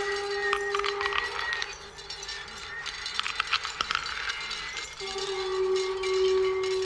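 Primitive wind instrument holding one steady whistle-like tone, which breaks off about two seconds in and comes back about five seconds in. Sharp clicks and rattles of struck hard objects sound over it.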